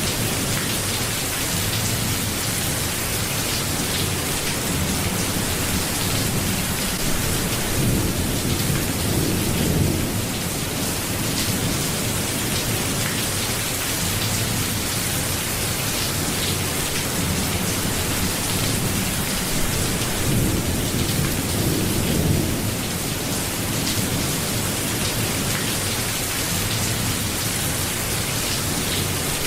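Steady rain falling, with low rolling rumbles of thunder that swell twice, about a quarter of the way in and again past the two-thirds mark.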